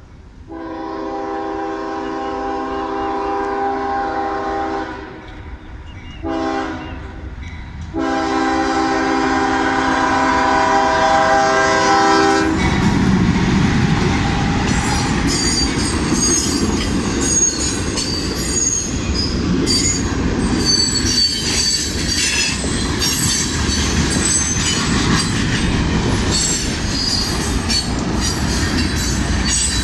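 Freight locomotive horn sounding the grade-crossing signal: a long chord blast, a short one, then another long one. Then the train passes close by, with a steady rumble, wheels clattering over the rails and squealing.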